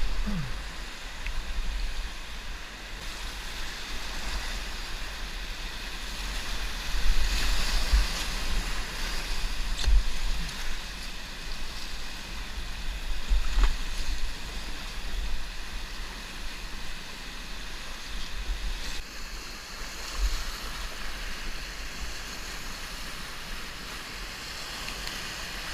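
River water rushing and splashing around a kayak, with wind rumbling on the microphone in uneven low gusts.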